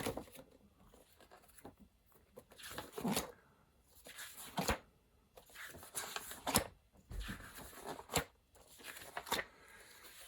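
Paper pages of a printed manual being turned and handled: about half a dozen separate rustles with a few sharp knocks, spaced irregularly.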